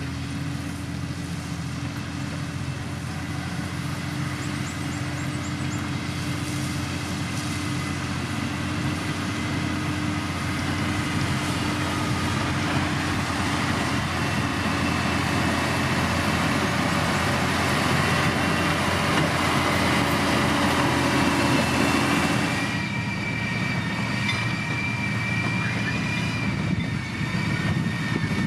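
Diesel engine of heavy road-building machinery running under load, growing steadily louder. About 22 seconds in the sound drops and changes, and a high steady whine comes in.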